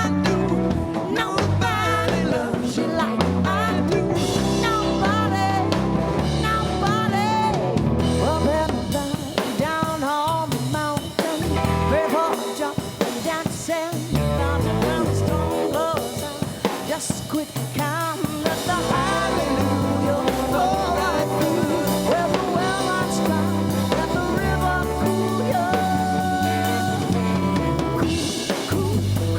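Live country-blues rock band playing an instrumental passage: electric guitar bending notes over bass and a full drum kit.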